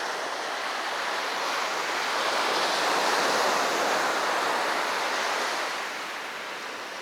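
Sea waves breaking on a beach: the rush of surf builds, peaks about halfway through, and fades as the wash draws back.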